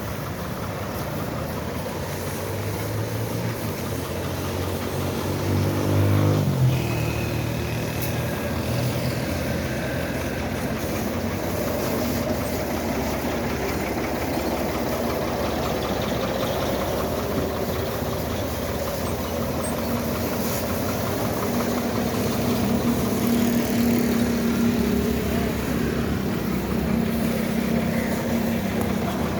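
Ford tractor's diesel engine running, its pitch climbing as it revs up about four to six seconds in, then dropping back suddenly and running steadily.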